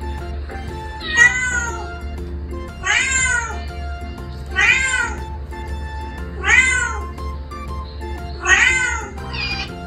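Recorded meows of a female cat played through a laptop speaker: five long calls about two seconds apart, each rising then falling in pitch, over background music.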